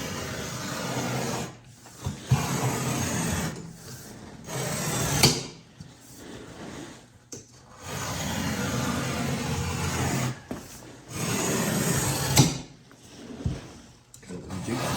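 A blade rasping and scraping through material in about six separate strokes, each lasting one to three seconds with short pauses between them.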